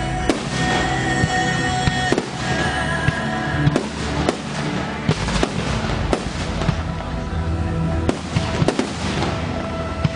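Aerial fireworks bursting in a rapid, irregular series of sharp bangs, with music playing underneath.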